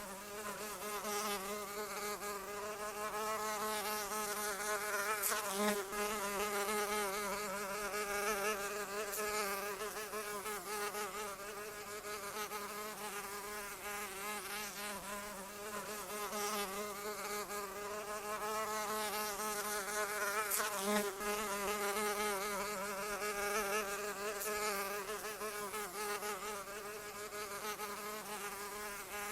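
A fly buzzing continuously, its wingbeat drone wavering up and down in pitch as it moves about, with two brief louder swells as it passes close.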